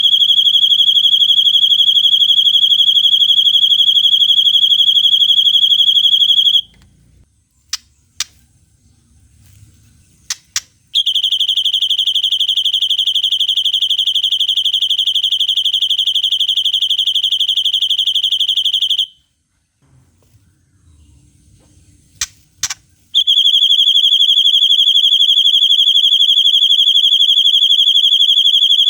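Long, rapid, perfectly even high-pitched bird trills of the 'cililin panjang' type used as masteran song: three trills of about six to eight seconds each, with a few short sharp chirps in the pauses between them.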